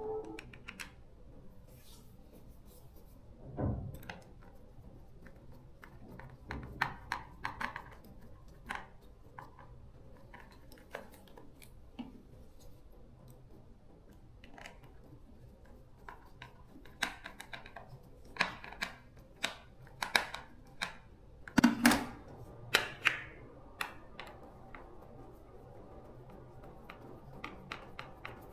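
Hard small parts being handled: irregular clicks, taps and light knocks, with a duller knock near the start and a cluster of louder, sharper clicks about three-quarters of the way through.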